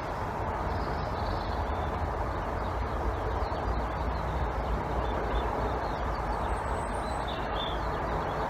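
Steady background rumble and hiss with no shot fired, and a few faint high chirps near the end.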